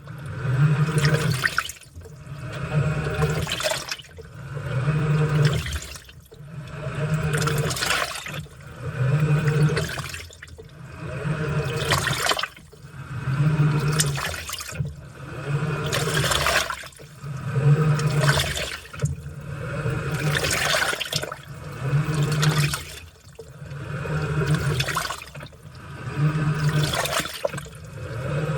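Washing machine washing a load: laundry sloshing and churning in water as the motor drives the wash back and forth, the sound surging and easing about every two seconds.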